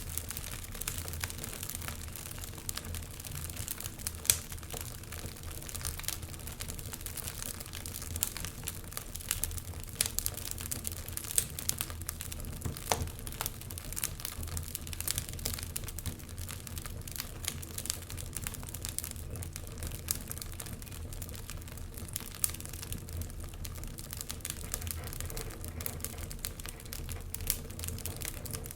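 Wood fire crackling in a fireplace: frequent irregular pops and snaps over a low steady rumble, with one sharper pop about four seconds in.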